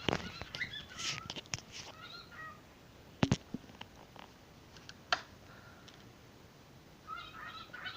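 Pet bird chattering in short warbling chirps, mixed with sharp clicks. There is a louder double knock about three seconds in. The chatter picks up again near the end.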